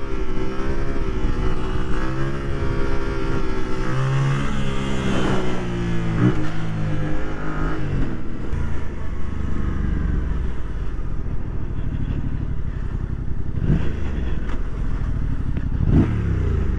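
Motorcycle engine running under way, its pitch rising and falling as the bike speeds up and eases off, over steady road and wind rumble. A few brief sharp sweeping sounds come about six seconds in and twice near the end.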